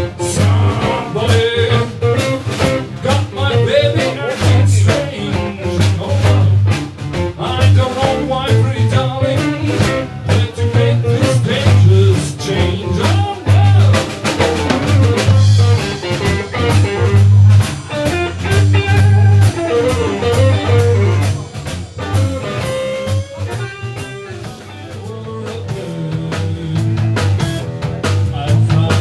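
Texas blues band playing live without vocals: an electric guitar lead with bending notes over a pulsing bass line and drums.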